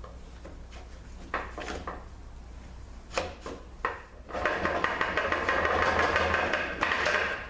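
Metal tools clinking a few times against the transmission case, then about three seconds of loud, rapid metal-on-metal rasping and scraping as a tool works at the 200-4R transmission's center support to pull it from the case.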